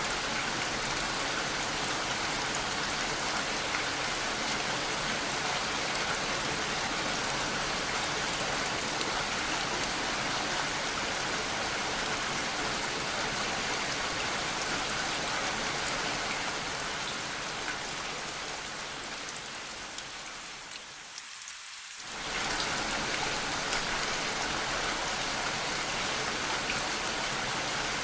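Steady rain falling, a dense hiss with fine drop ticks. It fades down over a few seconds, almost drops out about three-quarters of the way through, then comes back suddenly at full level.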